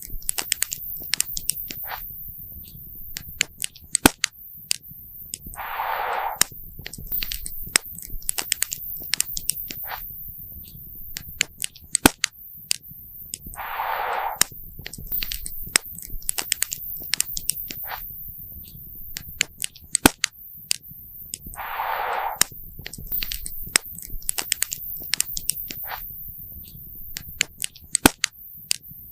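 Wood campfire crackling, with frequent sharp pops and snaps over a low rumble of burning. A short hiss comes about every eight seconds.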